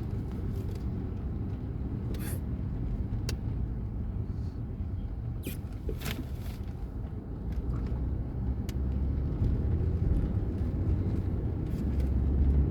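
Car running on the road, heard as a steady low rumble of engine and tyres that grows a little louder after about eight seconds, with a few brief sharp clicks or swishes over it.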